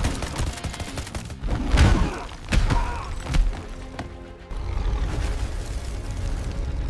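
Action-cartoon soundtrack: music with several heavy booms and crashes, the loudest a little under two seconds in and another at about two and a half seconds, then a steady low rumble from about halfway through.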